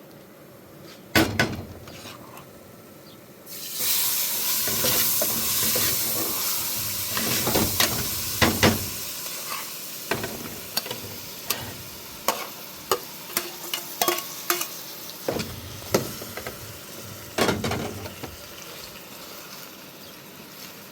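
Something frying in a pan: a sizzle starts suddenly about three and a half seconds in and slowly dies down, with repeated knocks and scrapes of a utensil stirring against the pan.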